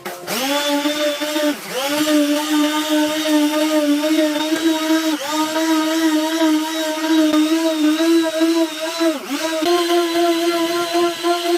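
Small high-speed electric power tool starting up and running with a steady whine. Its pitch dips sharply twice, at about two seconds and near the end, as it is pressed into work and bogs down, then spins back up.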